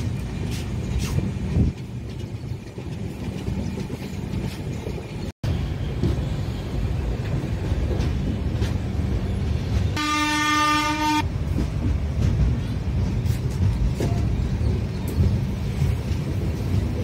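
Passenger train running, with a steady low rail noise, and a single train horn blast lasting about a second near the middle.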